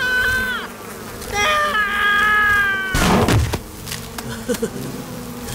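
Cartoon bee-swarm buzzing from a disturbed hive, with high held tones that sag slightly in pitch and a loud thump about three seconds in.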